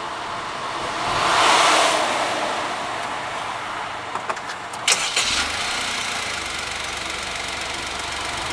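Honda S660's small three-cylinder turbo engine with an HKS exhaust being started: a few sharp clicks and a brief crank about five seconds in, then it settles into a steady low idle. Earlier, a rush of noise swells and fades about a second and a half in.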